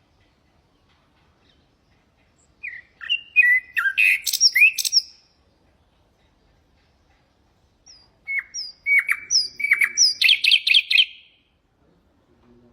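Nightingale singing two phrases of whistled notes and slurred calls a few seconds apart, the second ending in a fast high trill.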